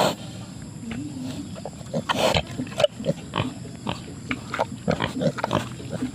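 Family of wild pigs, a sow with piglets, grunting in many short, irregular calls, with one louder, harsher call about two seconds in.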